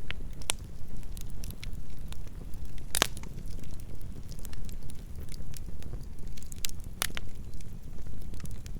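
Campfire burning: a steady low rumble of flames with scattered sharp crackles and pops, the loudest pops about three seconds in and about seven seconds in.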